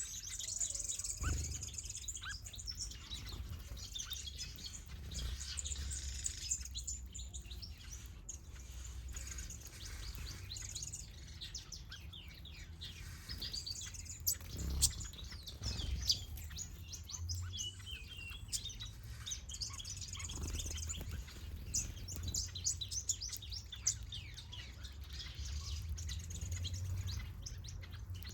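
Mixed aviary finches and softbills chirping and twittering, many short high calls and trills overlapping continuously. A steady low rumble runs underneath.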